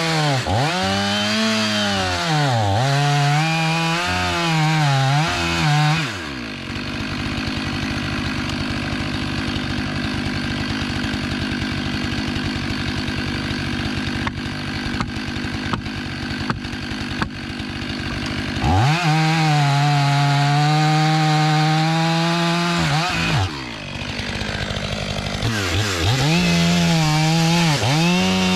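Stihl MS 500i fuel-injected two-stroke chainsaw bucking logs at full throttle, its pitch sagging and recovering under load. It drops to idle for about twelve seconds, with a few light knocks, then goes back to full throttle twice.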